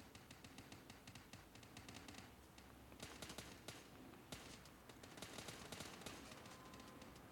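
Faint, rapid clicking and tapping, thickest in two flurries a few seconds in.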